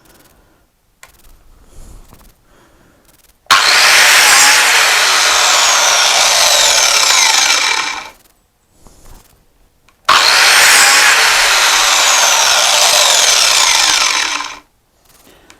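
Biscuit jointer run twice, each time for about four and a half seconds, plunging its spinning blade into wood to cut a biscuit-joint slot. Each run starts suddenly and dies away as the motor is switched off.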